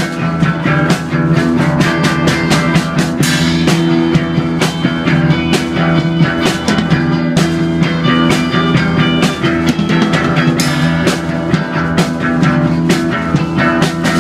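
Rock music with guitar and drum kit: held guitar chords over a steady drum beat.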